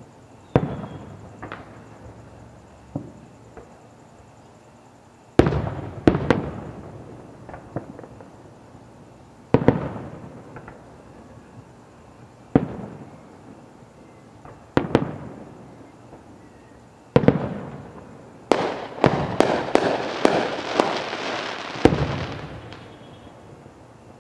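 Aerial fireworks shells bursting: single booms a few seconds apart, each trailing off in echo, then a rapid volley of bangs with crackling about three-quarters of the way in, closed by one more boom.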